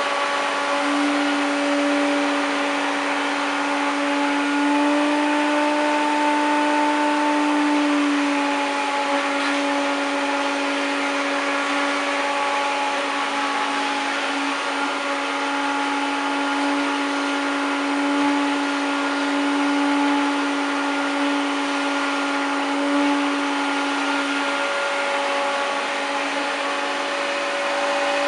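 1993 Hoover Turbopower 1000 upright vacuum cleaner running steadily while vacuuming a sofa, its motor hum wavering slightly in pitch as the suction load changes.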